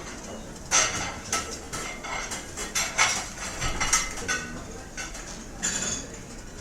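Restaurant dining-room clatter: cutlery and dishes clinking and knocking against each other many times in quick succession, some strikes leaving a brief ring, over a steady room background.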